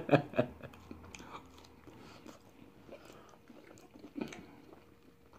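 Close-up chewing and soft wet mouth sounds of someone eating cheese fries with ketchup.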